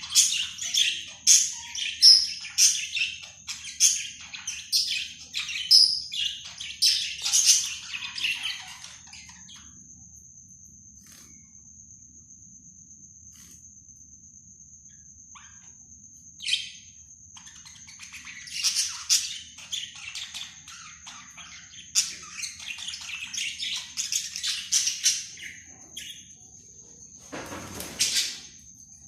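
Budgerigars chirping and chattering in quick high bursts, falling quiet for several seconds in the middle before chattering again. A brief rustling burst comes near the end.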